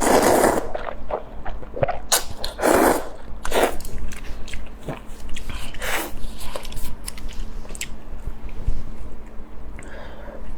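Close-up eating sounds: a person biting and chewing food, with irregular wet mouth noises and short clicks every second or so.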